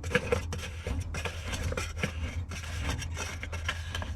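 Scattered small clicks, rubs and scrapes of hand work on metal parts as something under the hood is tightened down by hand, over a steady low hum.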